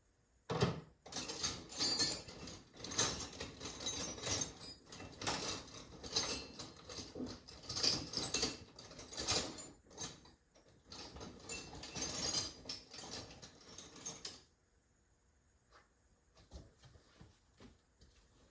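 Small metal tools and parts clattering and jangling irregularly, as if rummaged through, for about fourteen seconds, then stopping abruptly, with only a few faint clicks after.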